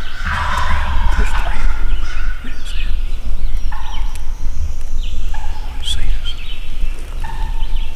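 Wild turkeys gobbling close by: a loud rattling gobble in the first second and a half, then short single-pitch calls three times. Small songbirds chirp high above, over a low rumble.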